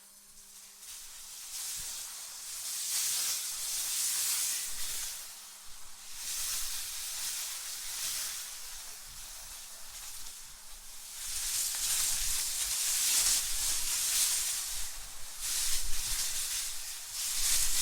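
AI-generated wind ambience: a hissy rush of wind swelling and fading in gusts every few seconds. The strongest gusts come about two thirds of the way in and near the end.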